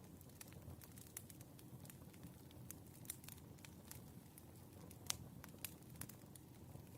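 Wood fire burning softly, with irregular crackles and pops over a low rumble; the sharpest pop comes about five seconds in.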